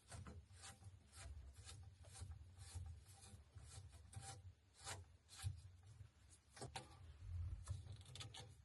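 Faint, irregular scraping and rubbing strokes with a low rumble beneath: a washing machine being shuffled across the floor into its space.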